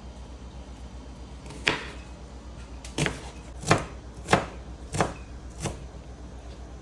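Kitchen knife chopping on a cutting board: six separate chops at an uneven pace, starting about a second and a half in.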